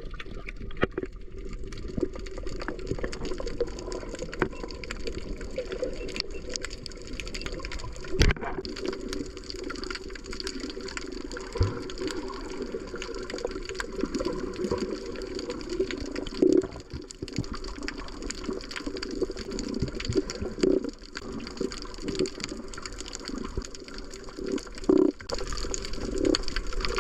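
Water sloshing and bubbling around a snorkeller's camera in the sea, with frequent short clicks and a few louder knocks throughout.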